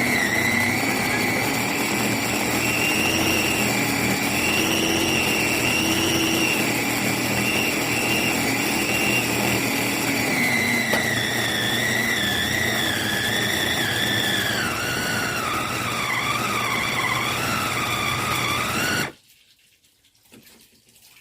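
Kaisa Villa electric food processor / meat grinder motor running, with a high whine that wavers and drops in pitch in the second half. It cuts off suddenly near the end.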